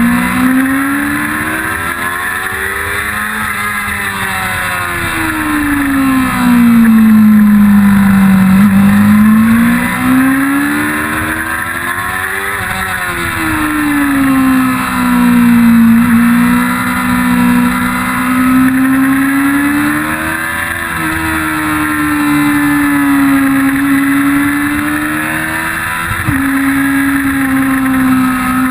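1999 Yamaha R6's inline-four engine heard on board at speed, its note rising and falling several times as the throttle is opened and closed, with a sudden drop in pitch near the end.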